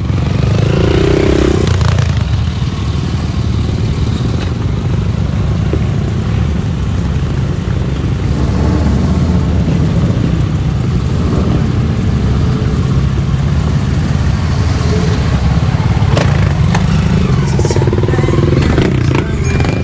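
Off-road 4x4 engines running close by, a steady low rumble.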